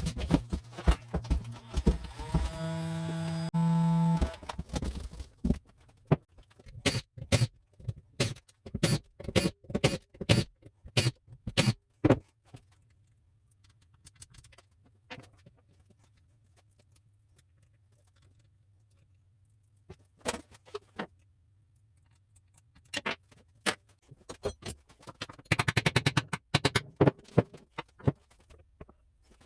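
Metal tools and parts clinking and clicking as they are handled, in irregular bursts. About three seconds in, a short steady whir from a small power tool.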